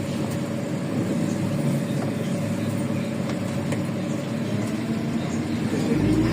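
Inside the cabin of a LiAZ 5292.65 city bus on the move: its Yuchai diesel engine and road noise rumble steadily, with a thin whine that rises a little in pitch near the end as the sound grows louder.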